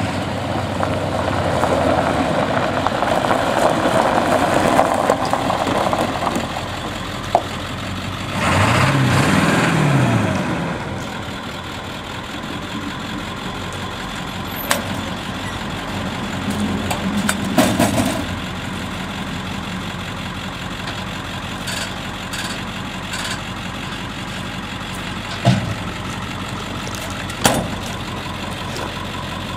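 Ford F-350 diesel engine idling steadily. About eight to ten seconds in it gets louder and the pitch rises and falls, and a few short clicks come later.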